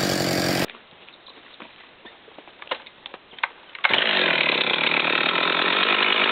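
Chainsaw running at high revs that stops abruptly under a second in, followed by a quiet stretch with a few sharp snaps or clicks; about four seconds in, a chainsaw comes in loud and steady again.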